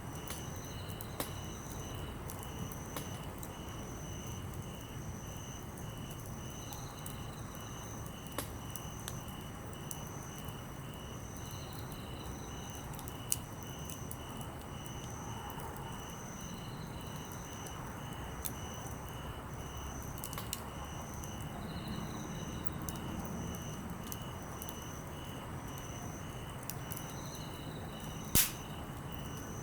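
Wood campfire crackling with scattered sharp pops, one loud pop near the end. Several insects call steadily in pulsed trills.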